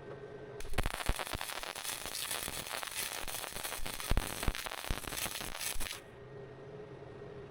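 Arc welder tack-welding steel hinge plates, a crackling sizzle with sharp pops that starts about half a second in and cuts off about six seconds in.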